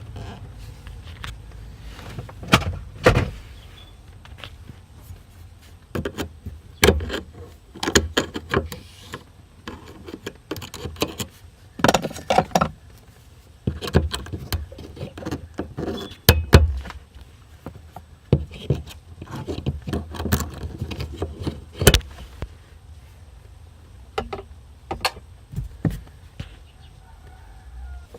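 Irregular clicks, knocks and short scraping squeaks as a small flathead screwdriver and hands work a rubber fuel hose off the plastic fitting on a BMW E46 fuel pump.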